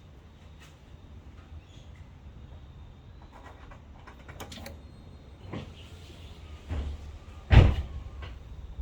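Scattered clicks and knocks of hands handling parts or a car's fittings, over a low steady rumble, with one loud thump near the end.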